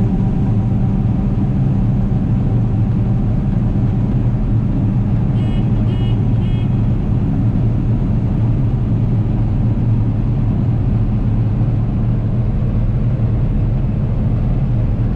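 John Deere 9760 combine running steadily with a loud, even engine drone. Three short high beeps from the combine sound about five to six and a half seconds in.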